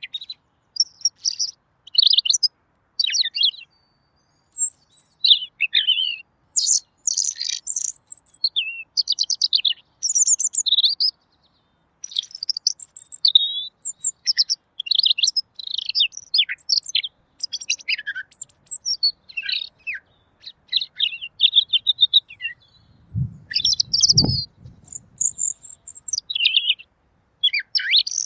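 Red-billed leiothrix (Pekin robin) singing clearly: a long run of quick, varied high-pitched phrases with short pauses between them. A low dull thump comes about three-quarters of the way through.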